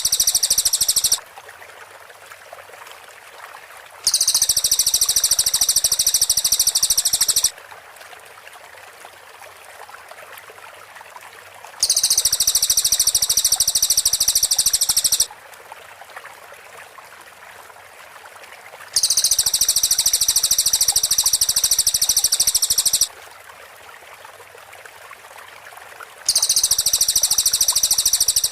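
Cililin birds singing in loud bursts of very high, rapid trilling, each three to four seconds long and coming back about every seven seconds. A faint steady hiss fills the gaps.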